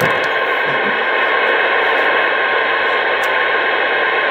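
Steady static hiss from a CB radio speaker, with no voice on it, cut off above and below like radio audio.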